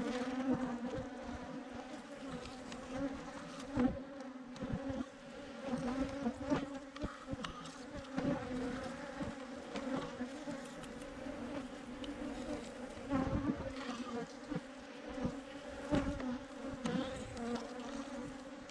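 A swarm of Africanized honeybees buzzing: a steady, dense hum that holds its pitch, with scattered soft bumps underneath.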